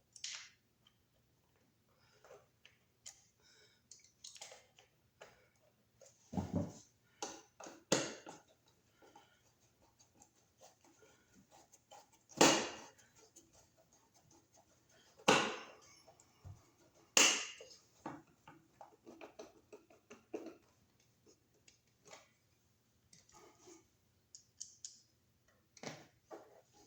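Scattered clicks and knocks of hands and hand tools working at an electrical outlet box while a receptacle is fitted, with three louder sharp knocks about halfway through.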